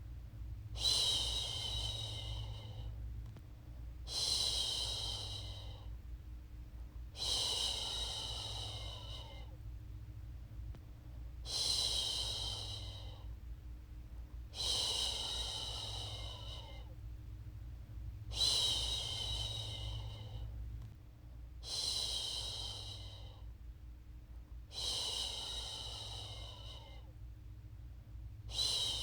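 A woman's voice shushing a baby to sleep, a long 'shhh' repeated about every three and a half seconds. Each shush starts strong and fades over about two seconds, over a steady low hum.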